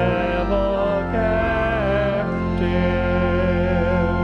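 Hymn singing with instrumental accompaniment: held sung notes with vibrato over steady sustained chords, the melody moving to new notes about one and two seconds in.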